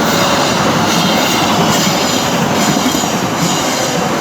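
A long train passing loudly, its wheels clacking over the rail joints about once a second.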